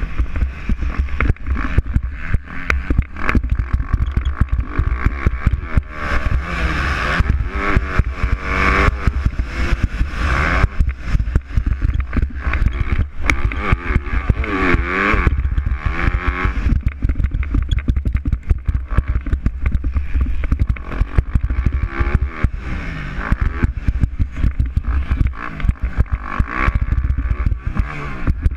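Motocross bikes racing in an MX2 heat, engines revving up and down as they accelerate, shift and brake around the track. The pitch rises and falls again and again as the bikes pass.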